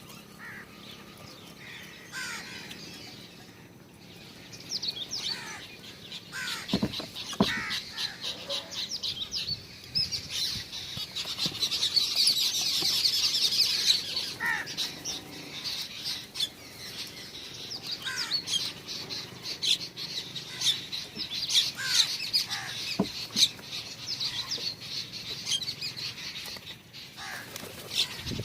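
Small birds at a feeder chirping and twittering, busiest about halfway through, with occasional wing flutters.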